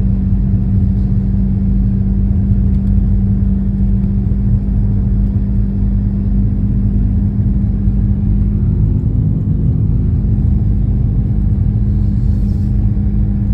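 A vehicle running: a steady low rumble with a constant hum that does not change.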